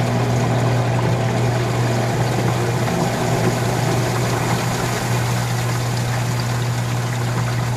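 RCA RPW160-B compact portable washing machine running: a steady pump hum with water pouring and flowing.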